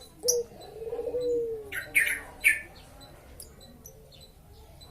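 Lovebirds calling: a sharp high call just after the start and a lower drawn-out tone that falls slightly, then three shrill chirps in quick succession about two seconds in.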